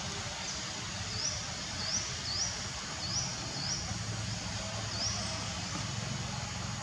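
A small bird chirping repeatedly: short, high chirps that rise in pitch, about two a second, over steady outdoor background noise.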